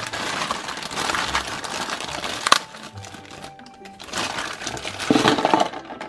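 A clear plastic bag crinkling as hands work toy dishes out of it, with one sharp click about halfway through. Near the end, a second bout of crinkling with plastic clattering as the plastic toy dishes are tipped into the plastic sink basin.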